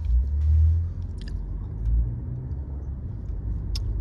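Low rumble of a moving car heard from inside the cabin, swelling loudly about half a second in and again around two seconds, with a few faint clicks.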